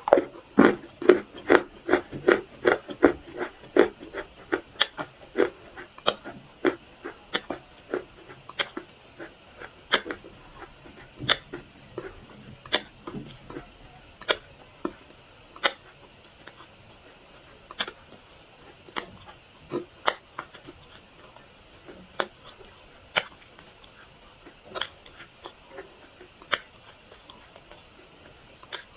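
Dry clay being crunched: a series of sharp, brittle crunches, quick and close together for the first few seconds, then spaced out to about one a second.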